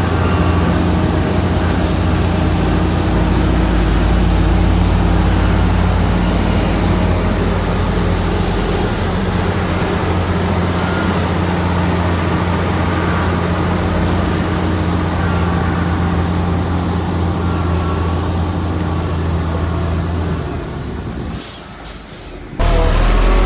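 Heavy diesel earthmoving machinery running steadily under load, with a deep, even engine hum and a broad mechanical rumble. Near the end it drops away with a couple of clicks, and another loud engine cuts in abruptly.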